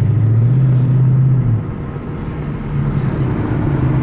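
Ford Mustang V8 engine running on light throttle; its low note steps up slightly, holds, then falls back and quietens about a second and a half in, and picks up again near the end.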